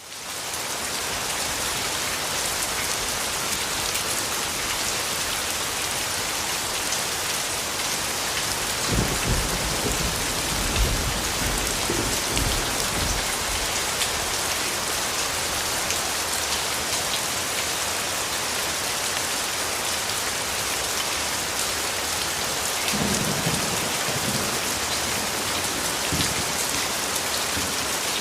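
Steady, heavy rain falling, fading in from silence over the first second. Low rumbles of distant thunder roll through about nine seconds in and again later.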